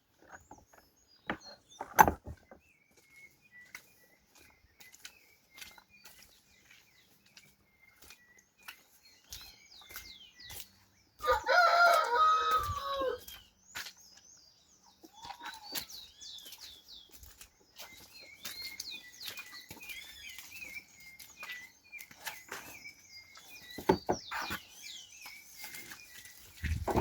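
A rooster crowing once, about eleven seconds in, a loud call of about two seconds that falls in pitch at its end. Small birds chirp faintly throughout, with a few sharp knocks scattered through.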